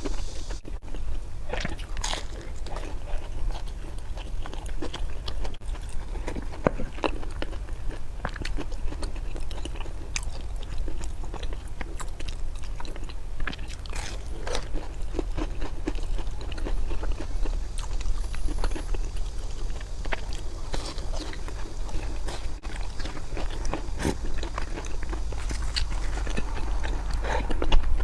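Close-miked eating: continuous biting and chewing of food, with irregular crunchy clicks and crackles.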